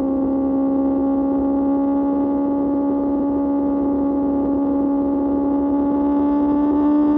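QJ Motor SRK600's inline-four engine through an SC-Project exhaust, running at high revs in one gear with its note creeping slowly upward as the bike gains speed. Wind and road rumble sit underneath.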